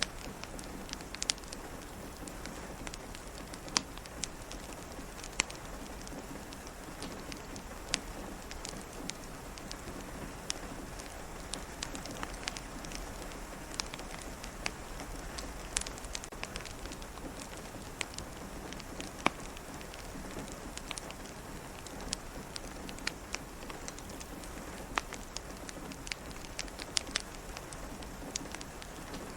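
Steady rain falling, mixed with a crackling fire that gives scattered sharp pops at irregular moments.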